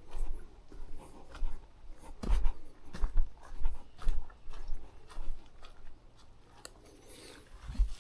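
A hiker's footsteps and rustling on a trail, with low thumps about two a second that die down after about five seconds.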